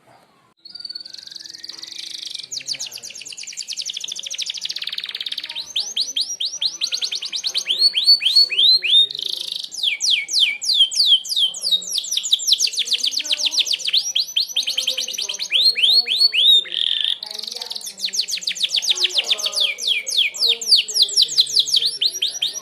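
Domestic canary (kenari merlok) singing a long, fast 'tembakan' song: rolls of rapid falling notes repeated many times a second, changing from one trill to the next with only brief breaks, starting about half a second in. This is the sharp trilling song that keepers play as a master recording for other songbirds to learn from.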